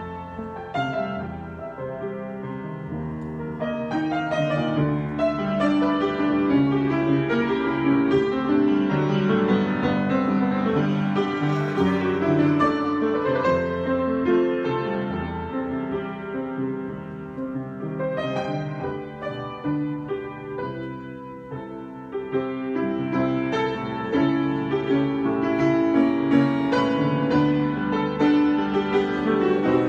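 Solo piano improvisation, with chords and melody in held, overlapping notes. It eases into a softer passage about twenty seconds in, then builds again.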